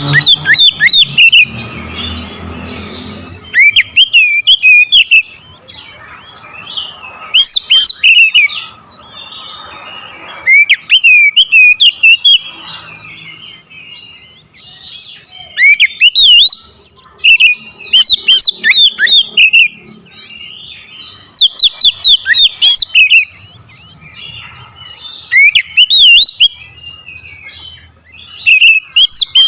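Oriental magpie-robin (kacer) singing a loud, hard song: bursts of fast, sweeping whistled notes, each lasting a second or two, repeated every few seconds with quieter chatter in between. This is the aggressive full song used to provoke a rival male.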